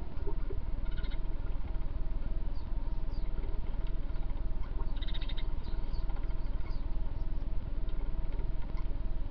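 Short, high chirps from the starlings and house sparrows around the bird bath, a few at a time: a cluster about a second in and another about five seconds in. They sit over a steady low rumble, which is the loudest part throughout.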